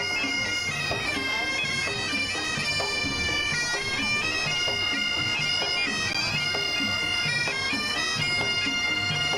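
Marching band music: wind instruments playing a melody in long held notes that step from pitch to pitch.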